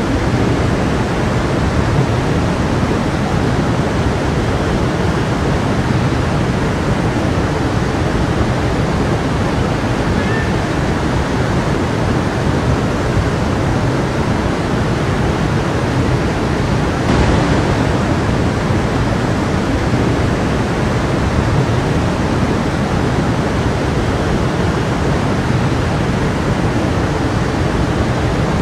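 A stream of water flowing steadily, a dense, even rush, with a slightly louder surge a little past halfway.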